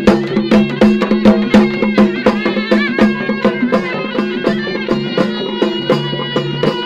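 Traditional folk music: drums beating a quick, even rhythm under a held low drone and a wavering melody.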